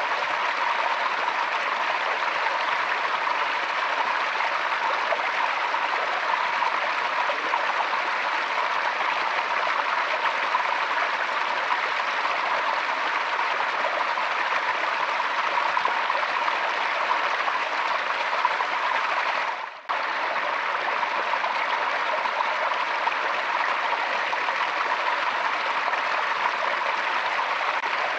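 Forest stream flowing steadily over stones, an even rushing and babbling of water. It briefly drops out for a moment about two-thirds of the way through, then carries on unchanged.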